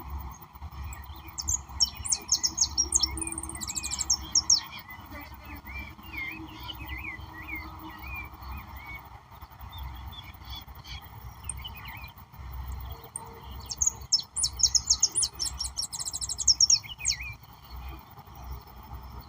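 Wild birds singing, with two bouts of rapid, high chirping trills, one about two seconds in and another around two-thirds of the way through, and softer warbled notes in between, over a steady low background.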